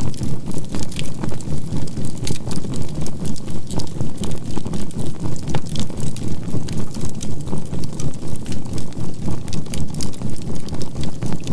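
Fire crackling with scattered sharp pops, under a low drone that swells and fades evenly about four times a second: a 528 Hz healing tone mixed with a binaural beat.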